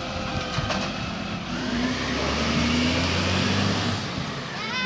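Garbage truck engine revving up for a couple of seconds as the truck works, then easing off. A short voice exclamation comes near the end.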